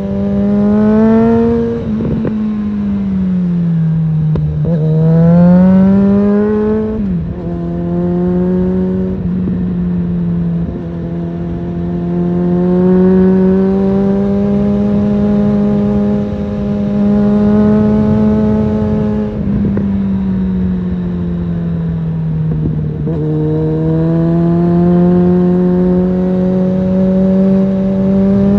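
Suzuki GSF650 Bandit's inline-four engine through an aftermarket Storm exhaust, ridden through the gears. The note climbs under throttle and drops sharply at each gear change. It holds a steady cruising pitch through the middle and slows and rises again near the end.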